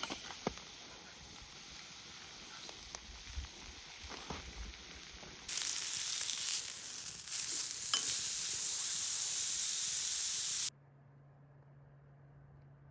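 Food sizzling as it fries over a campfire, with a few crackles; the sizzle jumps much louder about halfway through, then cuts off abruptly near the end, leaving a faint low hum.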